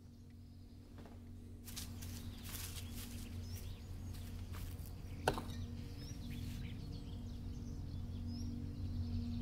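Film soundtrack: a low held drone that slowly swells, with small bird chirps and scattered rustling noises over it, and one sharp snap about five seconds in.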